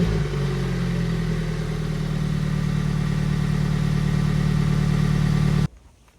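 Toyota Tacoma's turbocharged four-cylinder exhaust idling steadily just after a cold start, heard close to the tailpipe. It cuts off abruptly near the end.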